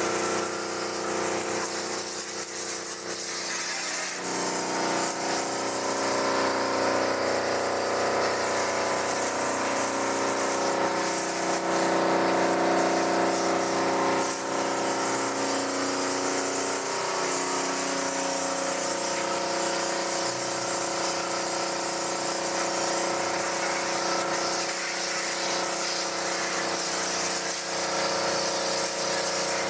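Car-wash machine's high-pressure pump running steadily while its spray gun blasts cold water, a continuous hiss over a steady motor hum.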